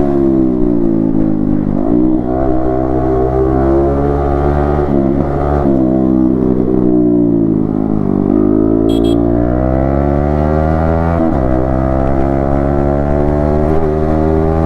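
Yamaha MT-15 V2's 155 cc single-cylinder engine under way, its pitch climbing as it pulls and dropping suddenly at each gear change, about three times. Around the middle it falls away more slowly as the throttle eases, then climbs again.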